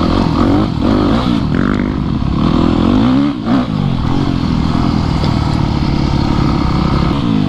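Dirt bike engine under way, its revs rising and falling several times, with a brief throttle-off dip about three and a half seconds in, then holding steadier revs.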